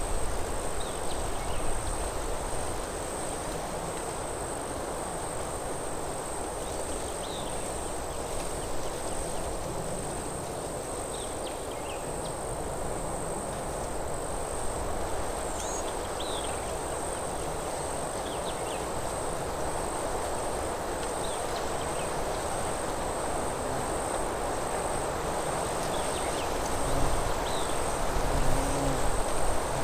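Forest ambience: wind in the trees as a steady rushing, growing a little louder near the end, with short high bird chirps every few seconds over a constant high-pitched tone.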